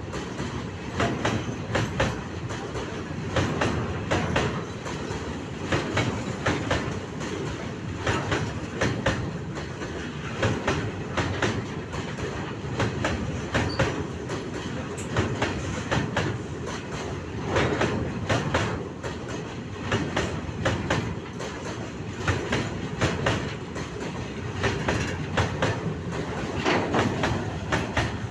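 Freight train wagons rolling on the track, their wheels clattering over the rail joints in a continual run of short clicks over a steady rumble.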